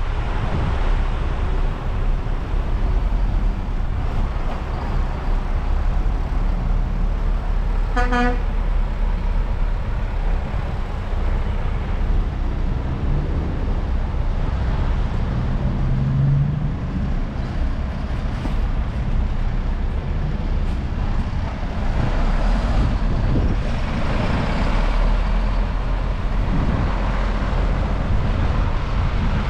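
Truck engines running with a steady low rumble and wind buffeting the microphone. One short horn toot sounds about eight seconds in.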